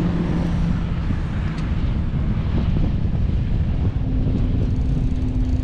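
Wind buffeting the microphone over the steady drone of an engine, its hum shifting to a higher pitch partway through.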